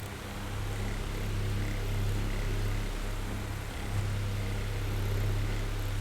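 Oscillating electric fan running: a low motor hum under the airy whir of the blades, swelling and fading slowly as the fan swings.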